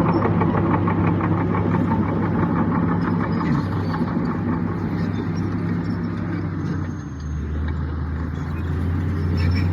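Heavy diesel engine of an earthmoving machine running, with a rapid regular pulsing. About seven seconds in its pitch drops as the engine slows.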